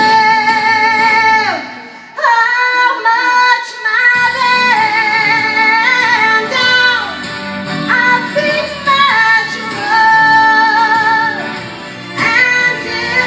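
A woman singing a Broadway show tune, belting long held notes with vibrato, with short breaths between phrases about two seconds in and near the end.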